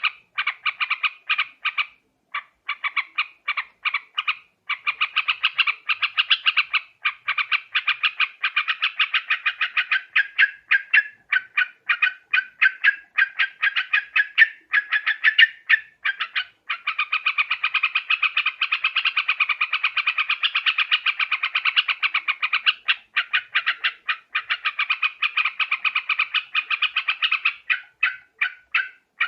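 Yellow-vented bulbul (trucuk) calling: a fast, unbroken run of short chattering notes, several a second, thickening into dense continuous chatter in the second half. It is a lure call used to attract bulbuls for trapping.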